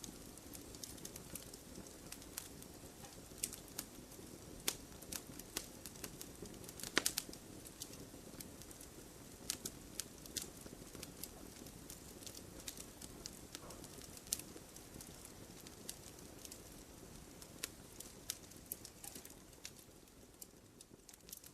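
Wood fire burning in a fireplace, crackling with irregular sharp pops and snaps over a soft, steady low hush.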